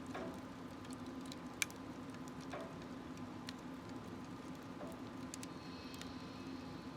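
Firewood burning in a smokeless stove, crackling with scattered small pops and one sharp, louder pop about one and a half seconds in.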